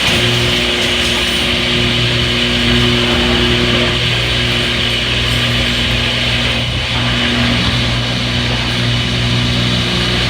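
Front-load washing machine on its spin cycle: a steady hum with constant tones over a rushing hiss.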